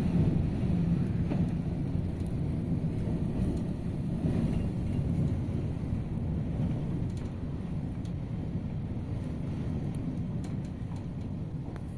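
Very strong wind buffeting the microphone: a heavy, gusting low rumble that is loudest at first and eases slightly toward the end.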